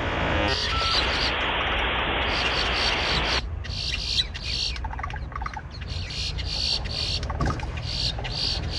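Grackles calling with dial-up-modem-like noises: a harsh, static-like hiss that cuts off sharply about three and a half seconds in, then a run of quick high chirps and clicks. A steady low rumble runs underneath.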